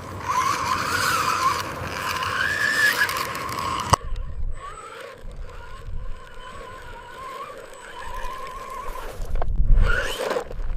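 Small electric motors and gearboxes of radio-controlled construction models whining, rising and falling in pitch over scraping noise. The sound cuts off abruptly about four seconds in, a fainter whine follows, and a louder burst comes near the end.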